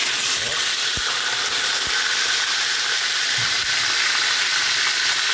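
Marinated pork chop sizzling steadily in a pan of oil already hot from the first batch, a loud even frying hiss.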